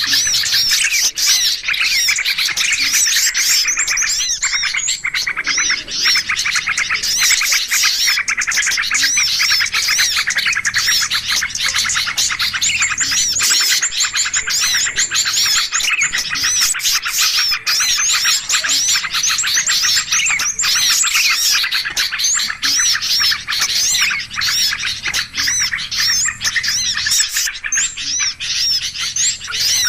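A dense, busy chorus of many small songbirds chirping and chattering over one another without a break: a noisy flock bird-lure (pikat) recording played to draw small birds in.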